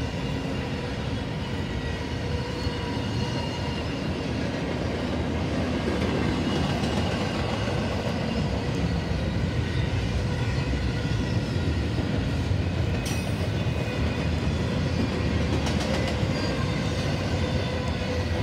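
Double-stack intermodal freight train's well cars rolling past at close range: a steady, unbroken rumble of steel wheels on the rails, with one brief sharp click about two-thirds of the way through.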